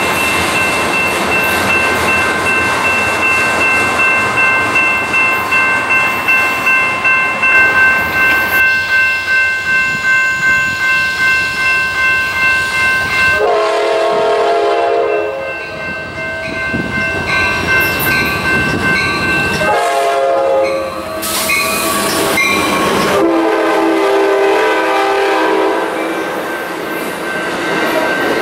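Freight train rolling past with wheel clatter while a grade-crossing bell rings steadily, about two strokes a second. Then an Amtrak California passenger train's horn sounds a series of blasts as it approaches, the last one long, and its bilevel cars roll by.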